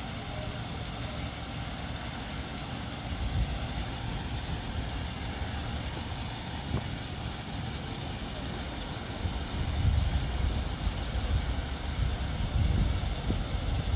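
Low rumble of a motor vehicle running, with irregular surges of low sound that come more strongly in the second half.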